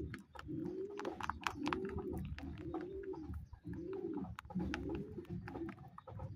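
Pigeons cooing, one low throaty coo about every second, over scattered sharp clicks and taps.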